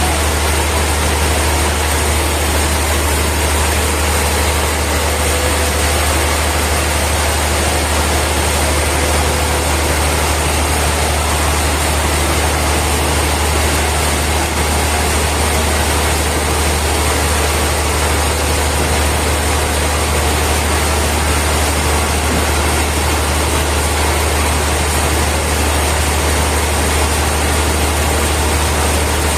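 Steady low hum of heavy machinery running without change, with an even noise over it and no cutting strokes or breaks.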